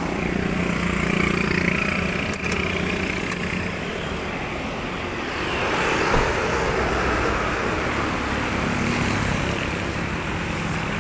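Road traffic noise: motor vehicles passing, a steady rush that swells twice and eases.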